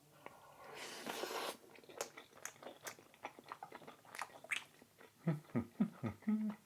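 Close-miked chewing and biting, with many wet little mouth clicks. There is a breathy rush about a second in and a few short low hums near the end.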